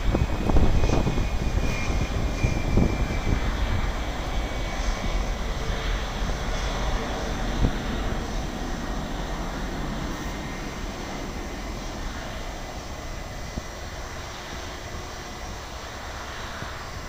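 An airliner's engines passing close by, a steady rush of engine noise that gradually fades as the aircraft moves away.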